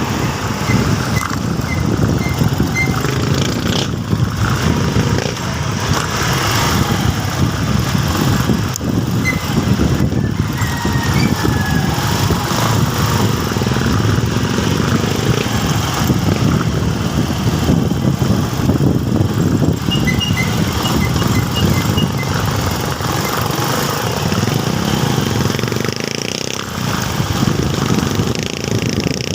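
Motorcycle running on the road, engine and wind noise steady throughout. Short runs of faint, evenly spaced high beeps come twice, near the start and about two-thirds of the way through.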